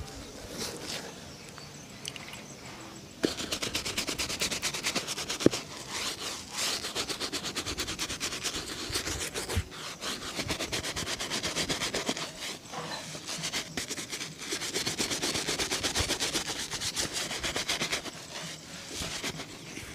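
Fast back-and-forth buffing strokes on a shoe during a shine, rubbing at several strokes a second. They start about three seconds in, pause briefly a few times, and stop near the end.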